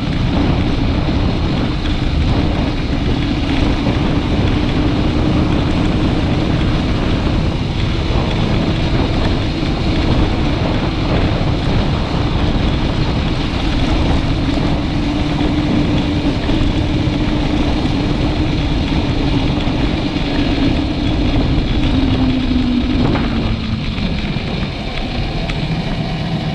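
A motorcycle riding at steady speed, with wind rushing over the microphone and a steady drive tone that drops in pitch near the end as the bike slows.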